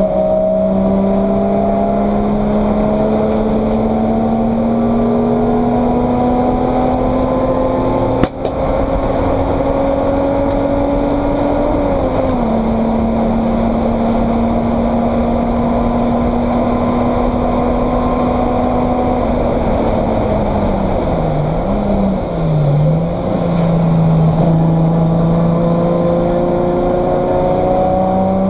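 Race car engine heard from inside the stripped cabin, running hard with its pitch climbing slowly, stepping down about twelve seconds in, dipping sharply twice about three-quarters through, then climbing again. A single sharp click with a brief drop in sound comes a little under a third of the way in.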